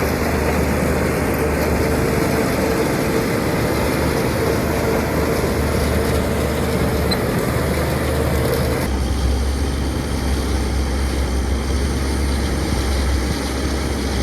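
Heavy diesel earthmoving machinery running steadily: a low engine drone with a faint steady whine above it. About nine seconds in the sound changes abruptly, the whine dropping out and the low drone growing stronger.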